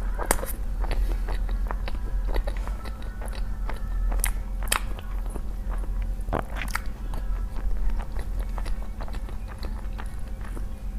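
Close-miked eating sounds of sesame noodles being chewed and bitten: many small, sharp, wet clicks, scattered irregularly. A steady low hum runs underneath.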